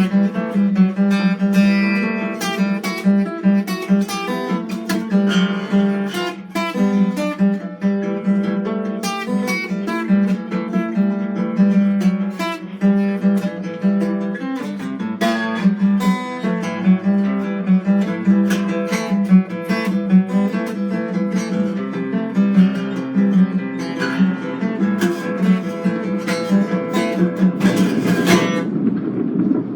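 Acoustic guitar played solo, an improvised run of plucked and strummed notes that stops about a second before the end.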